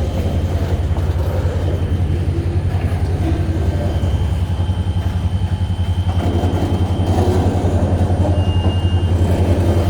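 EMD SD40-2 diesel locomotives' two-stroke V16 engines running under load with a steady, throbbing low rumble as they pull the train.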